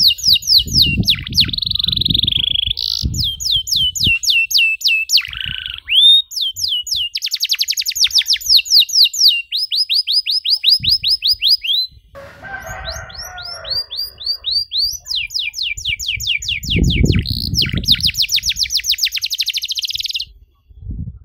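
Domestic canary singing a long, unbroken song of fast trills, each run a rapid string of repeated high sweeping notes, changing from one trill to the next every second or two and stopping shortly before the end. Low thuds sound underneath in places.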